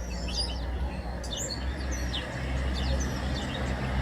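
Many small birds chirping, with short high chirps and quick sweeps coming several times a second, over a steady low rumble.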